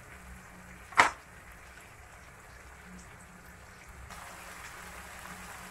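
Chicken pieces searing in oil in a wok with a faint, steady sizzle, and one sharp tap about a second in.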